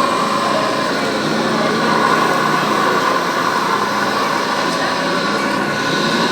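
Radio-controlled scale construction machinery running, a steady mechanical whine and hum from the models' small motors.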